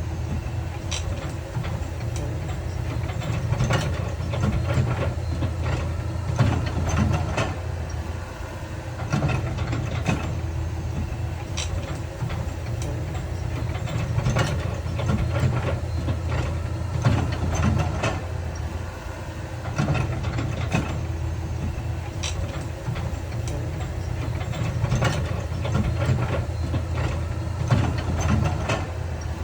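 Heavy diesel earthmoving machinery running steadily, with frequent sharp knocks and clanks of rock and steel.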